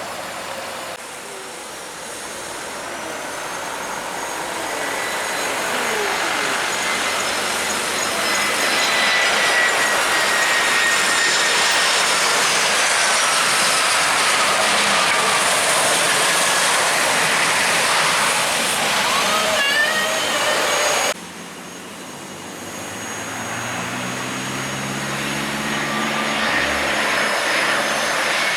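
Jet airliner engines passing close by: a rush of noise that builds and holds, with an engine whine falling slowly in pitch as the aircraft goes past. About two-thirds of the way in it cuts off abruptly, and a second aircraft's engine noise starts building again, with a low hum underneath.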